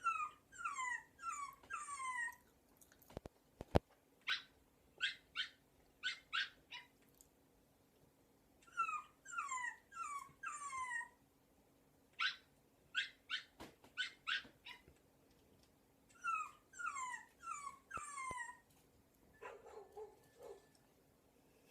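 A recording of dog whimpers and yips played on a loop: four falling whine-like cries, then a run of short sharp yips, the same sequence repeating about every eight seconds. This is the fake dog cry that the dog is reacting to.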